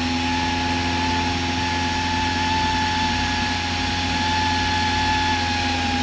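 Cessna 172's piston engine and propeller droning steadily in flight, heard inside the cabin. A thin, steady whistle runs over it, which the crew put down to wind going through the airframe.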